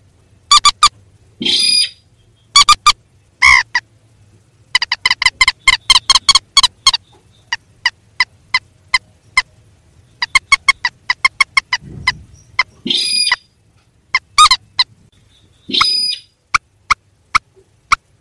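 Recorded calls of mandar and sintar rails played as a bird-trapping lure: trains of short, sharp notes repeated in quick runs, with a few longer, harsher calls mixed in.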